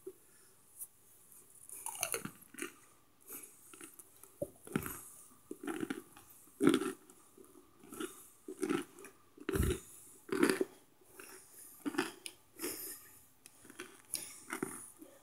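Person chewing chunks of microwaved cornstarch close to the microphone: slow crunching bites, about one a second, some much louder than others.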